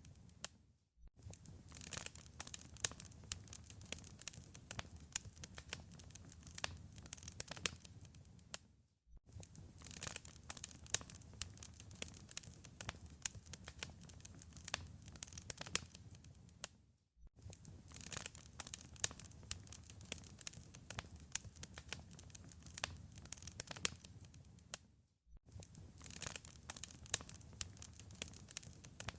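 Wood fire crackling: dense sharp pops and snaps over a low rumble. It cuts out briefly to silence about every eight seconds.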